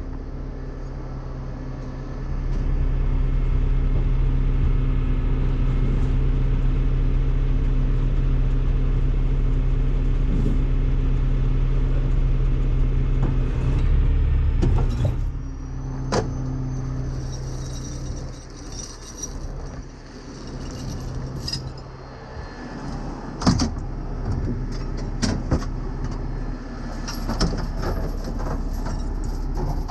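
A truck's diesel engine running steadily, its speed raised from about two seconds in and dropping back about halfway through. After that come repeated sharp metallic clanks and chain rattles as a semi tractor is chained up for towing.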